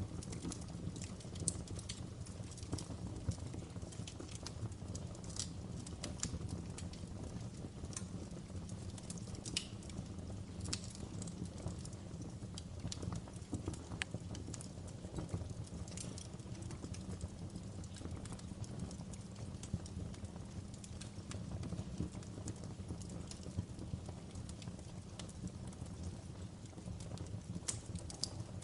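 Logs burning in a fireplace, crackling, with irregular sharp pops and snaps over a steady low rumble of the fire.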